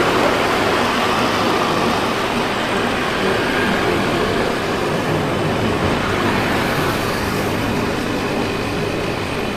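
Riding on a 50cc scooter in traffic: a steady rush of wind and road noise, with the small engine running under it and other vehicles around.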